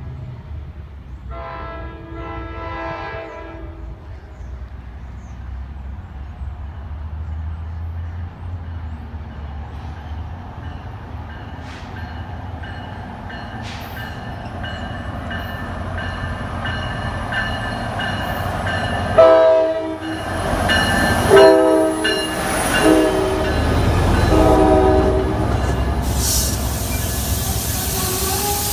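NJ Transit PL42AC diesel locomotive approaching with a low engine rumble that grows louder, sounding its horn: one long blast about two seconds in, then near the end four loud blasts, long, long, short, long, the grade-crossing signal. As the coaches roll past, a high hiss of wheels and brakes comes in.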